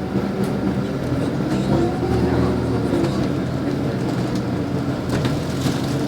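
Steady hum of a LiAZ 5292.65 city bus's engine, heard from inside the cabin while the bus is running, with a few light rattles and clicks from the body.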